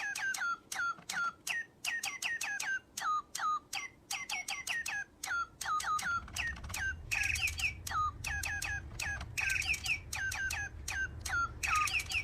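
A bird, most likely a pet parrot, chirps over and over in short, downward-sliding calls, a few a second. A few harsher, buzzier calls fall between them. A low rumble joins about halfway through.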